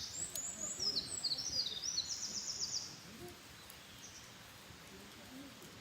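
A wild songbird singing a fast, high-pitched song of quick chirps and downward-sweeping notes that ends in a rapid trill, stopping about three seconds in.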